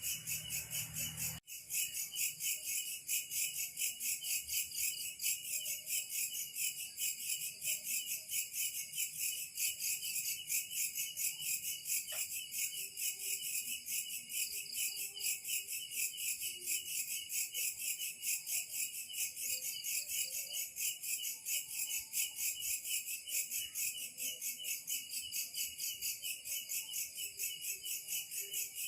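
Chorus of insects such as crickets or cicadas, chirping in a fast, even, high-pitched pulsing that never lets up. There is a short dropout about a second and a half in.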